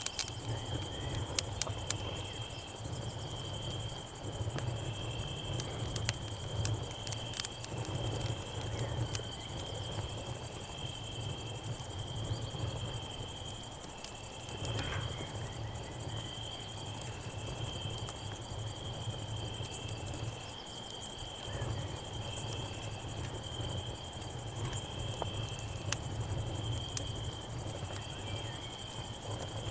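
Night insect chorus: a steady high-pitched cicada drone with crickets chirping in pulses, over scattered crackles and pops from a campfire and a low, steady rumble.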